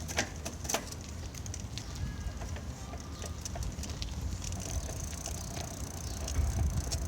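Bicycle riding: a steady low rumble of wind on the microphone, with scattered clicks and rattles.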